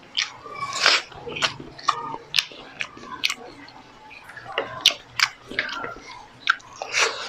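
Close-miked mouth sounds of a person eating fried eggplant, grilled milkfish and rice: wet chewing and lip smacks with sharp clicks at irregular moments.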